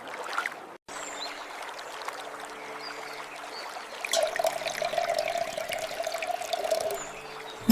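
Water trickling and pouring, a little louder from about four seconds in until near the end.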